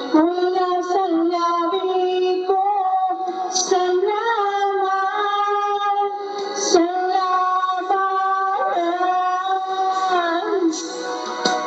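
A female voice sings a slow Tagalog ballad in long, held notes over a backing track. Near the end the voice stops and the accompaniment carries on.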